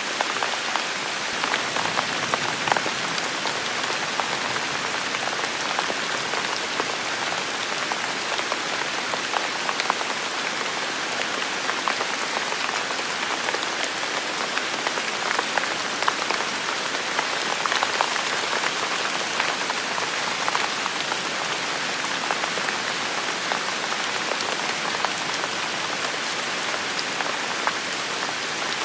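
Heavy rain falling steadily, a dense even wash of sound with many sharp individual drop hits scattered through it.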